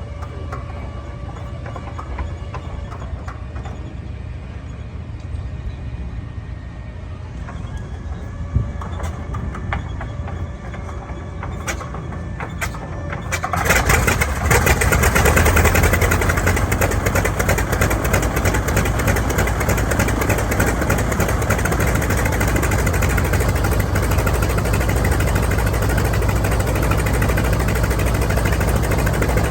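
Light airplane piston engine and propeller running at idle. About 13 seconds in it suddenly gets much louder and then holds steady, as the engine powers up close by.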